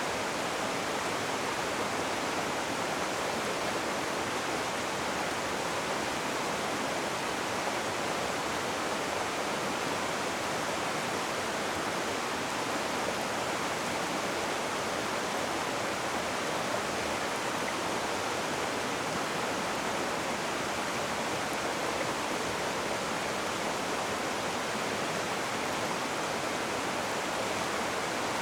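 Rushing river water: a steady, unbroken hiss of fast-flowing water with no distinct splashes or other sounds.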